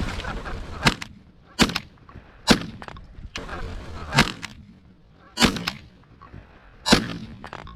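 Six shotgun shots fired at incoming geese, sharp and loud, coming at irregular intervals about a second apart over roughly six seconds, some with a short echo after.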